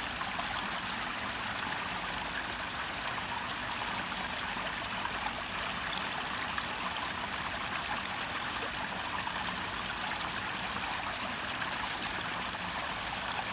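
Water falling and running from a garden waterfall, a steady splashing rush that holds even throughout.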